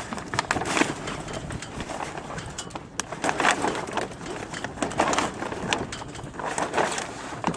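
Jib hanks being unclipped from the forestay: sharp metal clicks among bursts of sailcloth rustling and handling noise.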